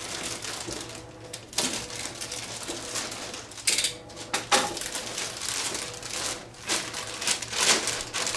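Cardboard and plastic packaging being handled and pulled apart, with irregular rustling and scraping strokes, some sharper than others.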